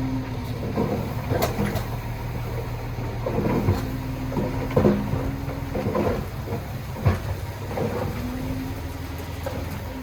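Heavy diesel earthmoving machinery running steadily, with several sharp metallic clanks and knocks over the engine note.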